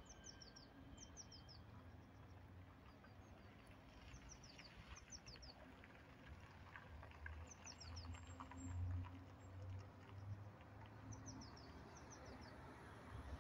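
Faint small-bird chirps: short runs of three or four quick falling notes, repeated every few seconds. A low rumble underneath grows louder about nine seconds in.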